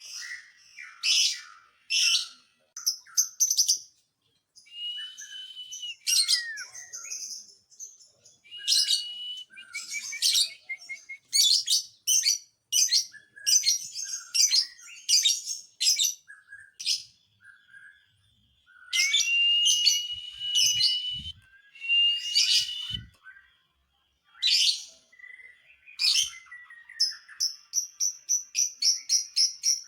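Lovebird singing in bursts of sharp, high-pitched chirps and chattering trills with short pauses between. Near the end it breaks into a fast, evenly repeated run of chirps.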